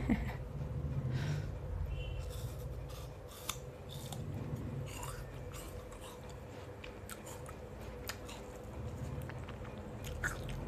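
A woman chewing fruit close to the microphone: wet mouth sounds with scattered sharp little clicks.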